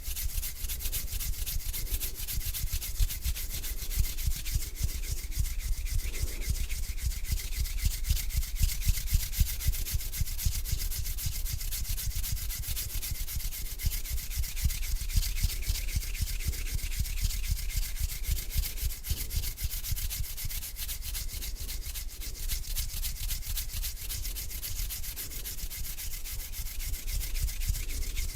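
Hands rubbing together close to a sensitive microphone: a continuous dry hiss with fine crackle, over a low rumble.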